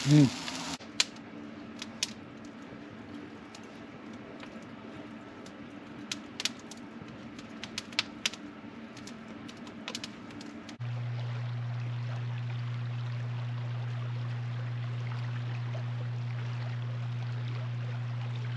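A short, loud rising sound opens, then scattered light clicks and clinks over a faint low tone, like utensils or dishes being handled. About eleven seconds in, the sound cuts to a steady low hum.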